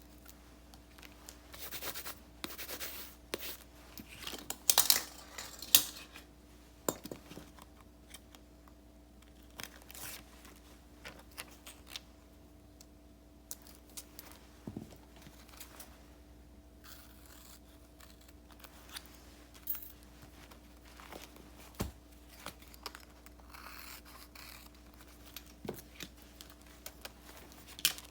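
Paper and sticker sheets being handled for journal decorating: intermittent rustling, peeling, scraping and snipping, with the loudest bursts between about two and six seconds in.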